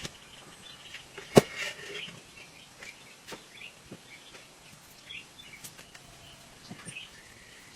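One sharp, loud knock about a second and a half in, followed by scattered fainter taps and clicks, with birds chirping in the background.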